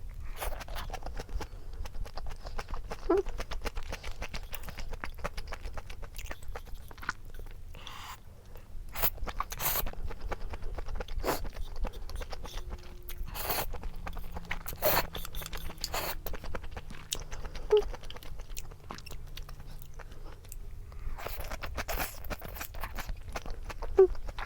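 A person chewing and crunching food, a steady run of small wet crunches and mouth clicks, thicker and louder about halfway through.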